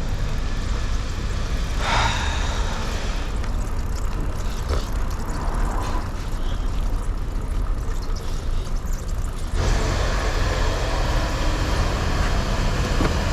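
Steady low rumble of vehicle engines, with a brief higher rush about two seconds in. About ten seconds in the sound changes abruptly and becomes louder and fuller.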